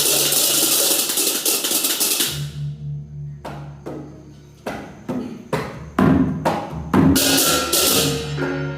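Balinese baleganjur gamelan playing. Clashing ceng-ceng cymbals over a low gong hum cut off about two seconds in, leaving sparse sharp drum and gong-chime strokes. The full cymbal clash comes back in near the end.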